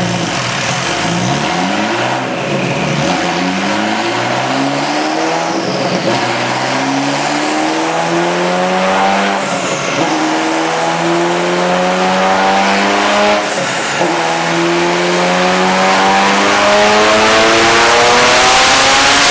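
Twin-turbo 2.9-litre V8 of a Ferrari F40, tuned to about 1100 hp, running under full load on a dyno. It climbs in pitch through several gears, with a brief dip at each upshift, and each gear runs longer than the one before. A rising hiss builds toward the end.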